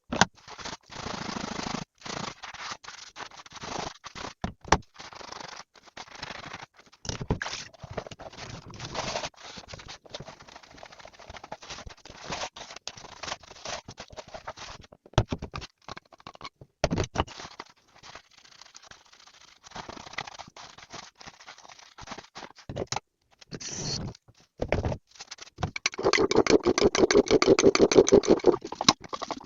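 Kitchen clatter of dishes and utensils: irregular knocks, clicks and short scrapes, with a few seconds of rapid, rhythmic scrubbing near the end.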